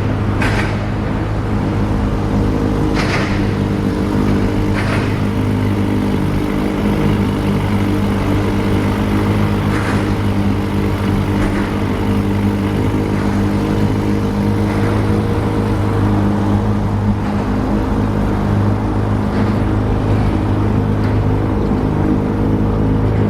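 An engine running steadily at an even pitch, a constant low drone, with a few short knocks or clicks over it in the first ten seconds.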